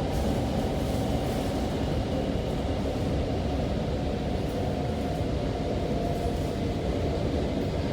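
Steady low rumble inside an MTR K-train, a Rotem-built electric multiple unit, running at speed between stations, likely through the cross-harbour tunnel.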